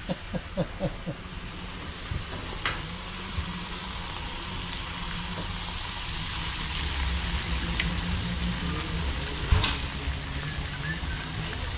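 Food sizzling on a flat-top griddle: a slice of ham frying, with the sizzle growing louder about six seconds in as an egg is cracked onto the hot plate. A few light knocks and clicks of cooking come through the steady hiss.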